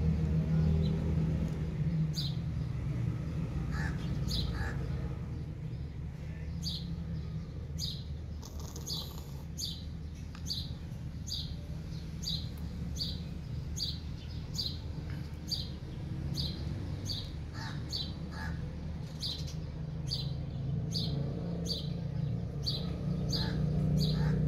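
A small bird chirping over and over, short high chirps about one a second, over a steady low hum.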